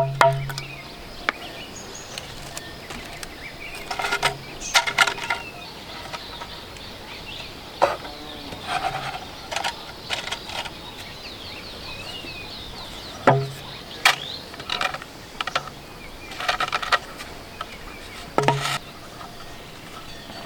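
Irregular knocks and clatters, a few at a time and some with a brief ringing tone, over a steady outdoor background with faint bird chirps.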